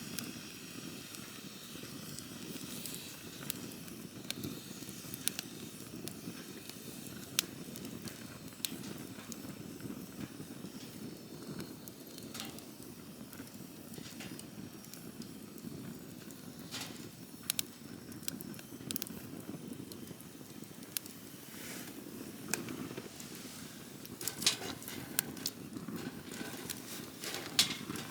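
Wood campfire burning: a steady low rush of flame with scattered sharp crackles and pops, coming more thickly near the end.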